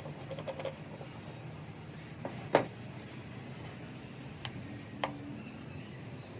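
Hard objects clinking and tapping in a workshop: a few small ticks at first, one sharp loud clink about two and a half seconds in, and two lighter taps near the end, over a steady low hum.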